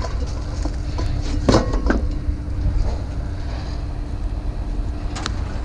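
A steady low engine rumble runs under the scene, with two short metal clanks about a second and a half in and a sharp click near the end, as scrap metal is handled.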